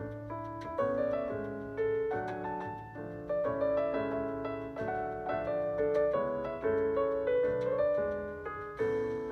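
Background piano music: a gentle melody of struck notes that ring and fade, a new phrase about every second.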